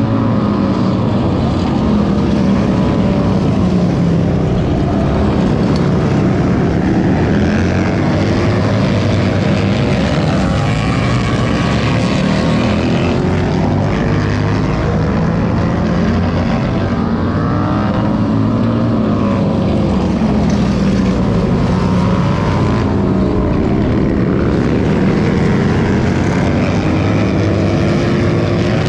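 Several motorcycle engines running together, their pitches rising and falling without a break.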